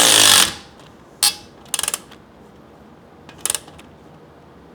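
A power tool runs in a short burst at the start. Then a ratchet wrench clicks in two quick runs, near two seconds and again about three and a half seconds in, as a pipe clamp is tightened.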